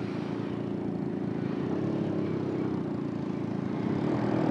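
A motorcycle engine idling steadily, getting a little louder near the end.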